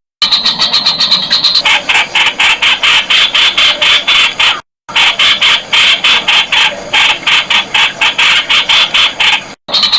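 Streak-eared bulbul calling: a fast, harsh chatter of short repeated notes, about five a second, that drops lower in pitch after a second and a half. The sound cuts out completely for a moment about halfway through and again near the end.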